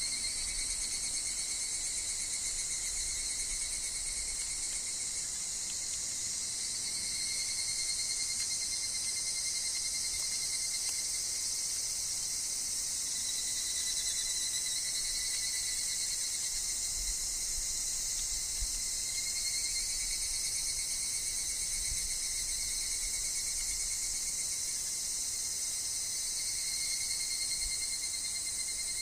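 A forest insect chorus led by higurashi evening cicadas: a dense, steady high-pitched drone with thinner calls that swell and fade every several seconds.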